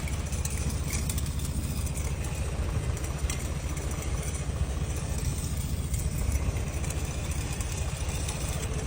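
Tractor engine running steadily, a low, even rumble.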